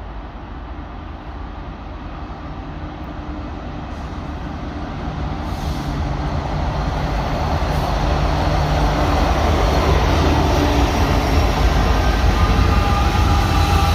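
Diesel locomotives of a freight train approaching: a low engine rumble with steady tones that grows steadily louder, with rail and wheel noise filling in toward the end.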